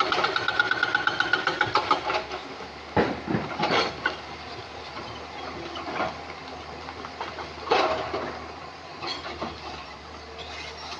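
Excavator-mounted hydraulic rock breaker hammering rapidly on stone, stopping about two seconds in. Then come scattered sharp clanks of rock and steel over the excavator's steady engine hum.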